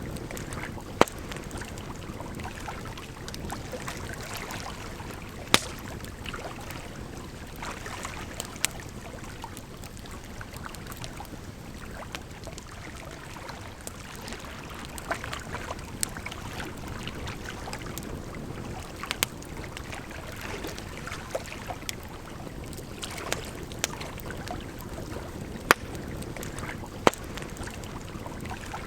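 Campfire crackling, with sharp pops at irregular intervals over a steady rush of flowing water.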